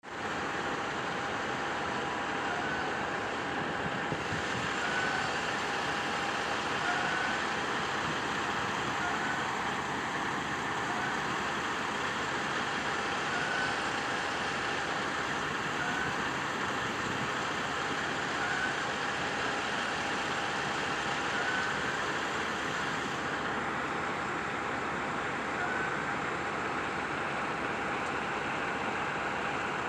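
Steady outdoor background noise of the vehicle-traffic kind, even and unbroken, with a faint steady hum and a short faint chirp repeating every two seconds or so.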